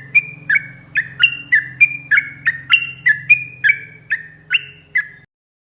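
Yellow-vented bulbul (trucuk) calling in a fast, even run of sharp notes, about three a second, each note dropping in pitch. The calling cuts off abruptly near the end.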